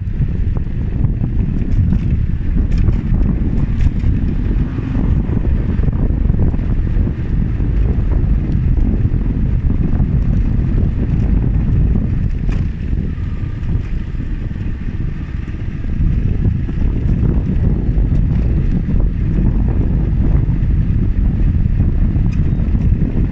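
Wind buffeting the microphone on a moving bike: a steady low rumble, with a few faint clicks.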